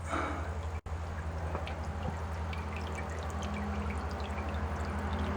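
Water splashing and trickling into a birdbath bowl from a small solar-powered fountain pump, with many little drips and a low steady hum underneath.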